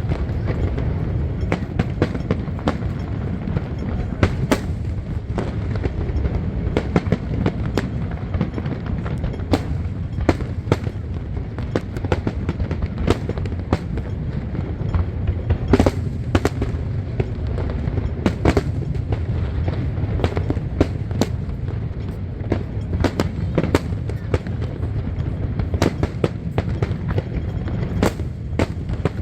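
Fireworks display going off: a continuous crackle of irregular sharp bangs and pops over a steady low rumble, with a louder bang about sixteen seconds in.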